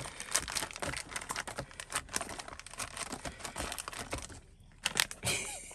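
Plastic food packaging crinkling and crackling as it is handled and opened, dense for about four seconds, then a few separate clicks.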